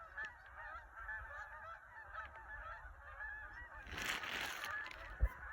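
A flock of geese honking, many overlapping calls at once. About four seconds in there is a brief rush of noise, then a single low thump.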